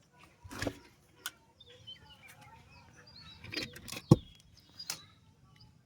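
Several sharp clicks and knocks of small hard objects being handled, the loudest about four seconds in, with faint high chirping in the background.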